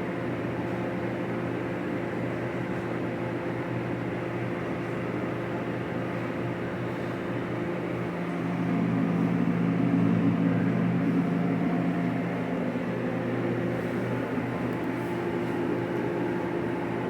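Steady machine hum from a running motor or fan, with a few fixed tones over a hiss, swelling louder for a few seconds about halfway through.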